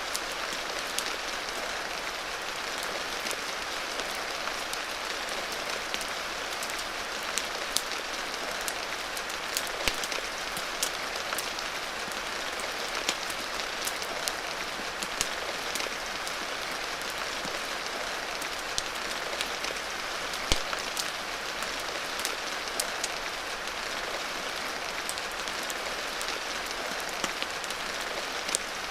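Steady rain falling, mixed with frequent sharp pops and crackles of a wood fire in a fireplace.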